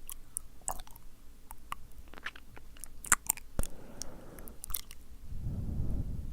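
Wet mouth sounds made close to the microphone: a scattered series of tongue clicks and lip smacks, followed near the end by a low rushing breath blown onto the microphone.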